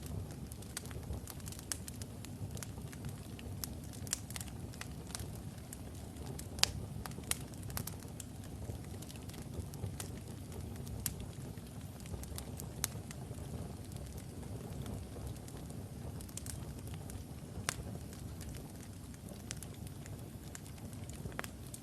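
Wood logs burning in a fireplace: a steady low rush of flame with frequent irregular crackles and pops, one sharp pop about six and a half seconds in standing out as the loudest.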